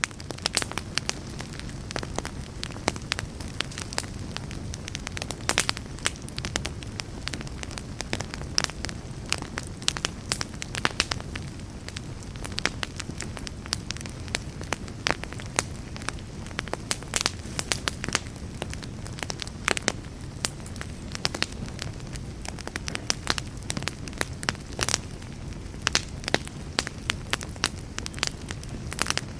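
Wood campfire crackling, with frequent sharp pops and snaps spread irregularly over a steady low rush of the flames.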